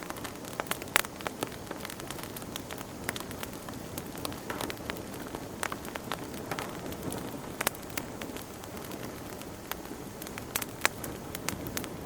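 Fire crackling in a fireplace: a steady low hiss with frequent sharp, irregular pops, a few of them much louder than the rest.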